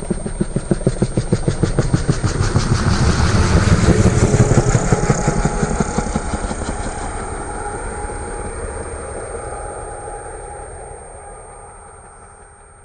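A motorized Lego helicopter's rotor mechanism whirring with rapid, fast-repeating clicks. It builds to its loudest about four seconds in, then slowly fades away.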